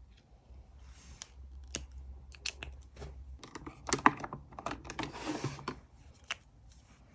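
Paper and stationery being handled for diary decorating: a run of small clicks and taps with paper rustling. The clicks are densest, with rustling, about three and a half to six seconds in, and a single click comes near the end.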